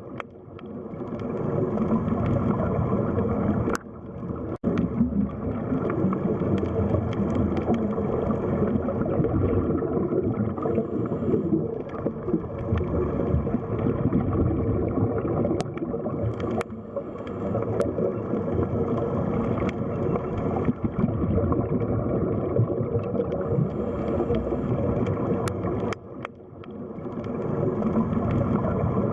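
Underwater sea ambience: a dense, muffled rumble with bubbling and gurgling. It drops away sharply about four seconds in and again near the end, then swells back.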